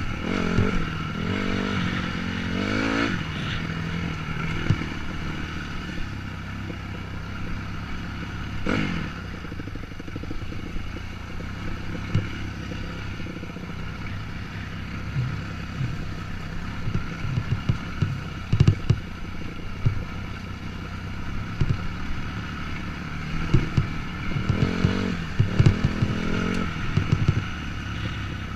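Dirt bike engine running on a rough trail, its pitch rising with the throttle a few times. Frequent short knocks and rattles come from the bike over the rough ground, thickest in the second half.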